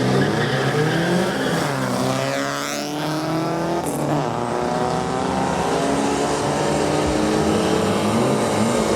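Volkswagen Gol drag car's engine at full throttle on a run. The pitch drops and climbs again at a gear change about two and a half seconds in, then rises steadily as the car accelerates.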